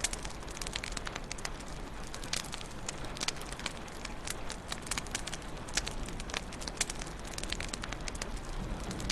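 Wood fire burning in a fireplace: a steady low rush with many sharp, irregular crackles and pops.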